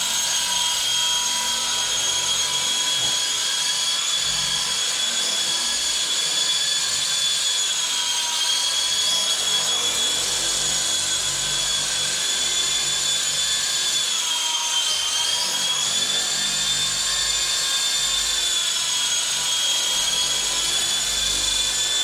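WLtoys V913 brushless RC helicopter in flight, its brushless motor and rotors making a steady high whine. The pitch dips slightly twice, about a third of the way in and again past the middle, as the throttle eases.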